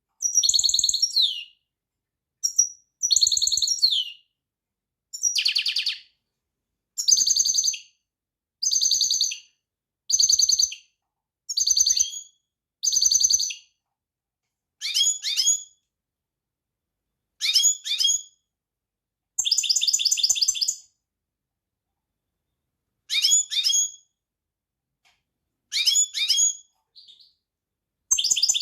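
Finch singing in short phrases of fast, high trills and chirps, each about a second long, with silent gaps of a second or two between them.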